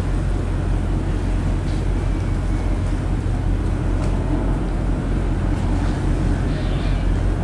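Ferry's engines running steadily under way: an even low drone with a haze of rushing water and wind noise over it.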